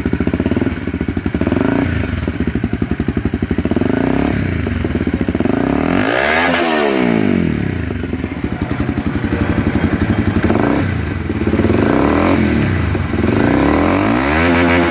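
Honda CBR250R's single-cylinder engine running through its exhaust, revved up and down several times, with two sharp rev blips: one about halfway through and one near the end.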